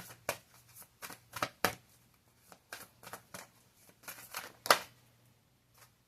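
A tarot deck being shuffled and handled by hand: a run of irregular short card flicks and slaps, the loudest just under five seconds in.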